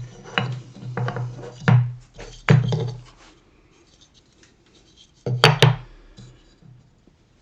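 Sharp wooden knocks and clunks from a workpiece and hand tools being handled on a workbench. There are several knocks in the first three seconds, then a quieter stretch with faint scratching, and the loudest pair of knocks comes about five and a half seconds in.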